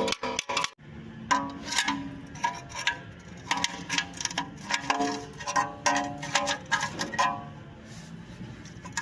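Audi's brakes making the complained-of noise: short squealing tones that shift in pitch, mixed with rapid clicking and scraping.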